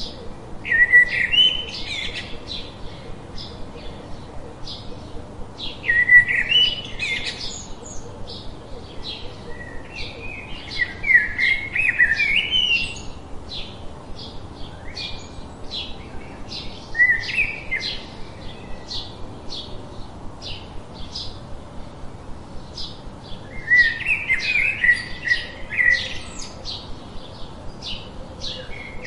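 Birds singing: a steady run of short high chirps, about two a second, with louder warbling song phrases breaking in every few seconds.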